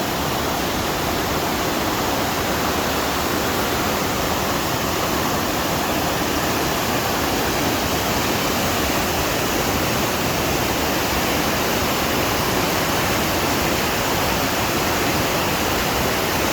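A waterfall rushing steadily, a dense, even noise of falling water with no breaks.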